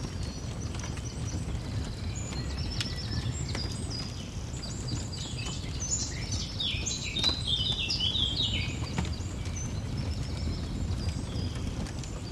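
Songbirds chirping in quick runs of short repeated notes, busiest in the middle, over a crackling fire with scattered sharp pops and a steady low rumble.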